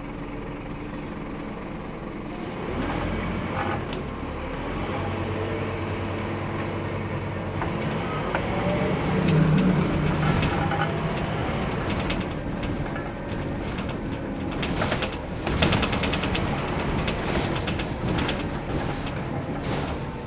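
Scania K230UB bus's diesel engine running under way, pulling harder and loudest about nine seconds in, with clattering rattles through the second half.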